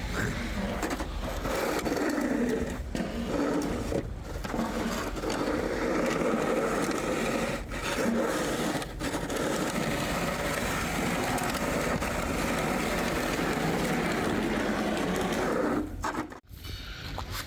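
Snowplow truck at work: a steady mix of engine and scraping noise, broken by a sudden drop near the end.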